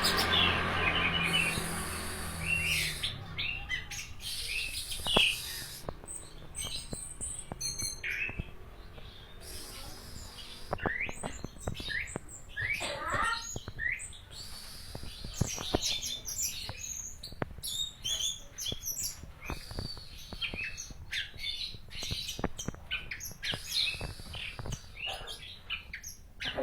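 Orange-headed thrush singing a long, varied song of quick whistles and chirps, with sharp clicks between phrases.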